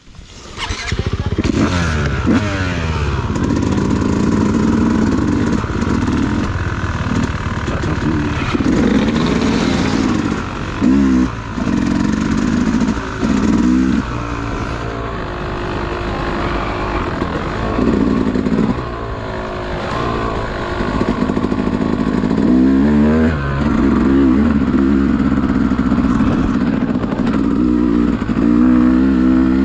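Dirt bike engine running under way, revving up and dropping back repeatedly as the rider works the throttle and gears through the whole stretch.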